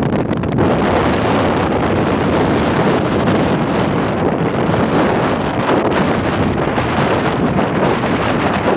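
Strong blizzard wind buffeting the microphone, a loud steady roar of noise that swells about half a second in.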